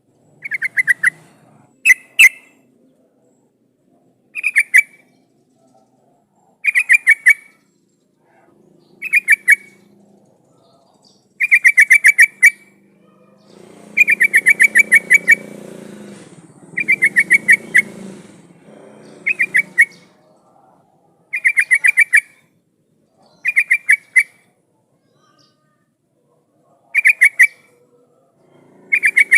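Yellow-vented bulbul (trucukan) song: short, loud bursts of rapid bubbling notes, repeated about every two seconds.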